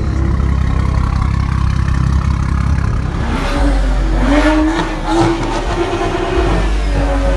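Loud car engine running and revving, a deep steady drone with rises in pitch from about halfway through.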